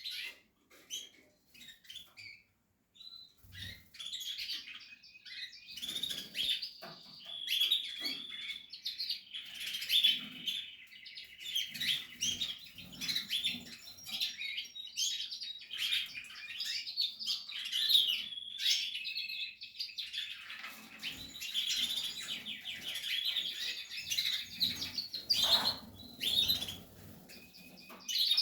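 Canary chicks in the nest chirping: a continuous chorus of rapid, high peeps that sets in a few seconds in, after a few scattered sounds.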